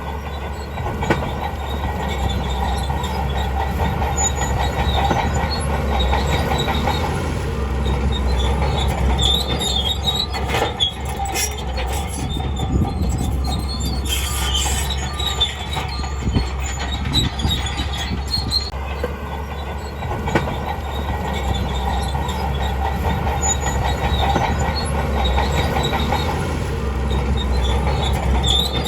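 Crawler bulldozer's diesel engine running with a steady low rumble, while its steel tracks squeal and clank as it moves.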